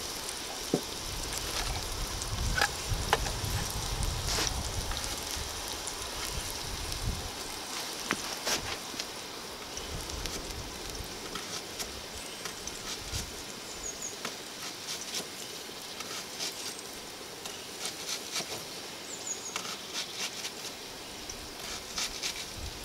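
Pumpkin pieces frying in a wok over a wood fire, a steady sizzle with scattered clicks and crackles.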